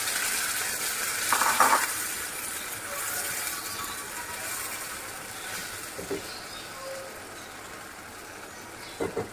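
Marinated chicken sizzling in hot oil in a non-stick frying pan as it is spooned in, the sizzle dying down gradually. A short spatula scrape stands out about a second and a half in, with a couple of light knocks later, the last near the end.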